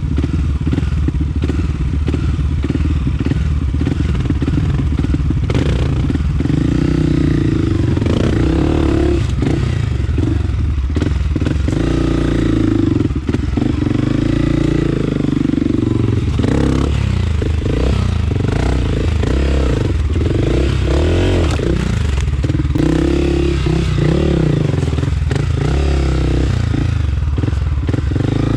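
Honda CRF250F's single-cylinder four-stroke engine revving up and down as the dirt bike is ridden over rough ground, with frequent knocks and clatter from the bike throughout.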